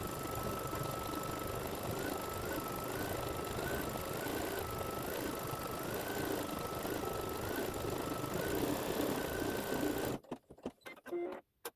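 Embroidery machine stitching out a design at a steady pace, a faint high whine stepping up and down as it runs. It stops abruptly about ten seconds in, at the end of a colour step, followed by a few short clicks.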